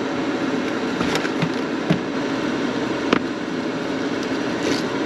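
A steady whirring fan noise with a few light clicks and knocks of food and packaging being handled, one about a second in, one near two seconds and the sharpest a little after three seconds.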